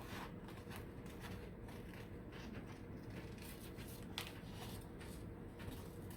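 Scissors cutting through paper: a series of soft, irregular snips, with one sharper snip about four seconds in.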